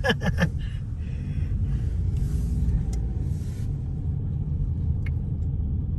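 Low, steady road rumble heard inside a moving car's cabin: engine and tyre noise while driving.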